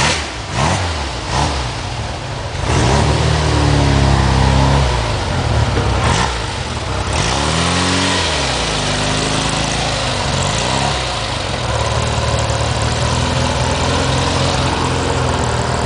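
Classic Fiat 600 Abarth's rear-mounted four-cylinder engine being blipped: the revs rise about three seconds in, climb and drop again around eight seconds, then settle to a steady idle.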